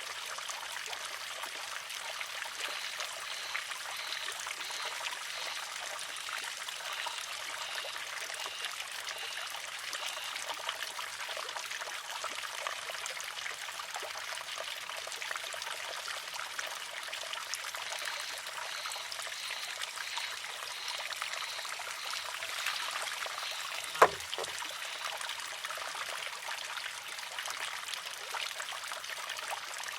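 Water trickling steadily into and around a wooden shishi-odoshi, with one sharp clack about three quarters of the way through as its water-filled arm tips over and strikes its rock.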